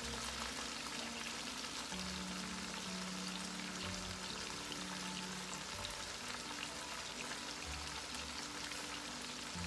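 Chicken pieces frying on high heat in a nonstick wok, a steady sizzle now that the released water has cooked off.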